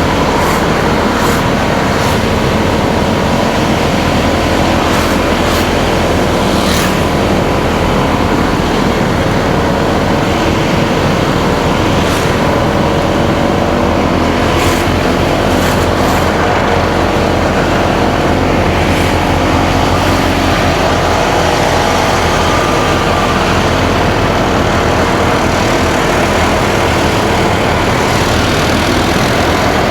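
Motorcycle engine running steadily while riding, heard with wind and road noise, plus a few short, sharp clicks here and there.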